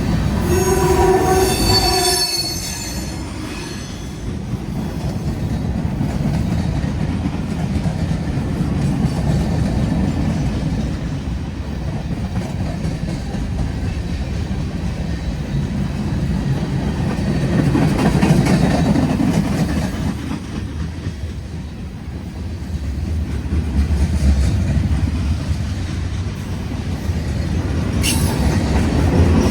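CSX freight train rolling past. A short pitched blast, likely the horn, ends about two seconds in, followed by the steady rumble and clack of freight cars going by, swelling and easing as they pass.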